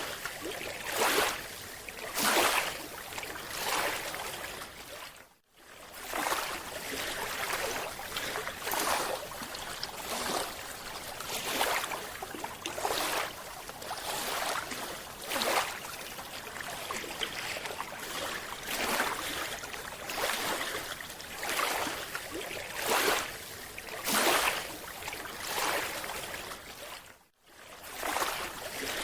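Water noise recorded underwater: a steady hiss with surges of bubbling every second or two, briefly cut off twice.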